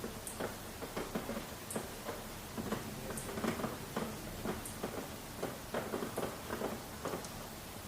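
Rain falling: a steady hiss with heavy drops pattering irregularly on a surface, and a sharp high tick about every second and a half.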